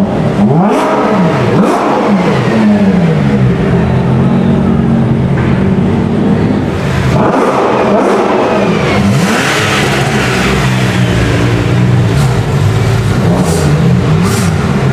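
Supercar engines revving hard inside a tunnel: repeated rev sweeps rise and fall over the steady rumble of idling cars, with a few sharp cracks along the way.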